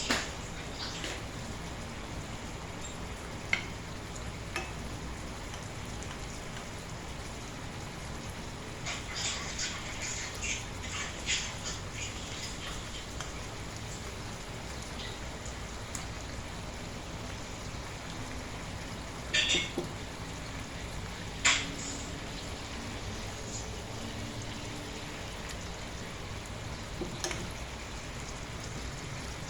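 Chicken frying in a pan with a steady sizzle, broken by scattered clinks and scrapes of a utensil against the pan, two sharper clinks coming about two-thirds of the way through.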